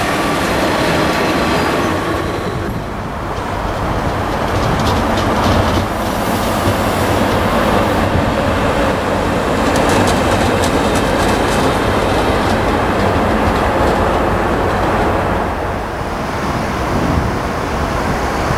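Rail vehicles rolling past on the tracks: first a self-propelled track-maintenance machine with its diesel engine running, then a diesel shunting locomotive, its wheels clicking over the rail joints in short runs.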